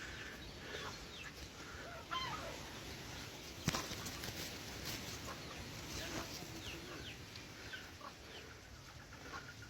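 A flock of domestic chickens clucking softly, with scattered short calls, and a single sharp knock a little under four seconds in.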